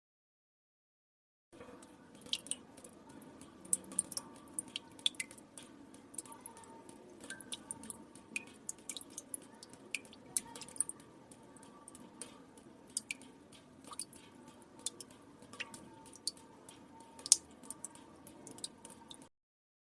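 Water drops falling into still water: irregular, sharp plinks and drips, several a second, one loud drop near the end. The dripping comes in after about a second and a half of dead silence and cuts off just before the end.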